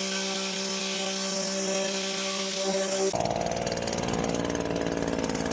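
Hedge trimmer running steadily while cutting laurel. About three seconds in, the sound changes abruptly to a lower, rougher running.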